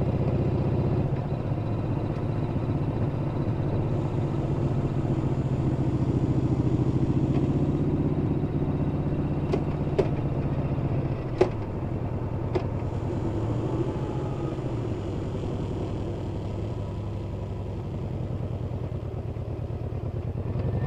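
Yamaha Bolt's V-twin engine running under way, a steady low rumble that eases and picks up a little with the throttle. Three sharp clicks come near the middle, a second or so apart.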